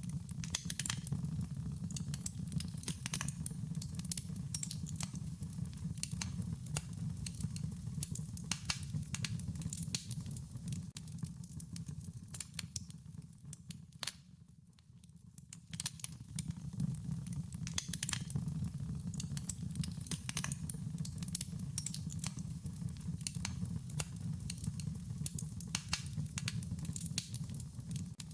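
Wood fire crackling with frequent sharp pops and snaps over a steady low rumble of the flames. It briefly dies down a little about halfway through, then picks up again.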